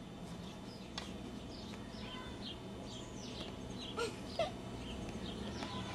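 Birds chirping in quiet surroundings, short high notes that slide downward, repeated every fraction of a second. Two brief squeaks stand out about four seconds in.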